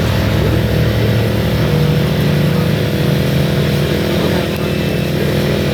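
A car engine running loud and close, its pitch rising briefly about two seconds in and settling back, like a light rev.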